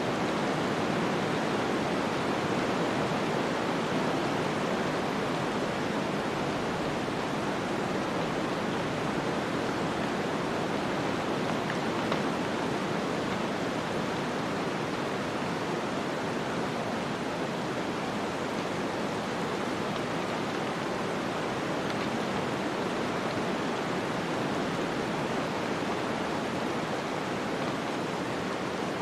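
Snowstorm ambience: a steady, even rush of wind and blowing snow that does not change.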